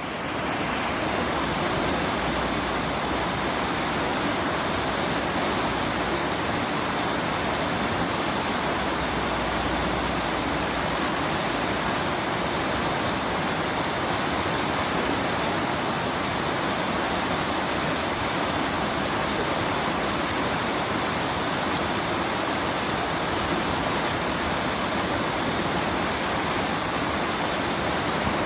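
Mountain valley stream flowing, a steady even rush of water that fades in during the first second or so.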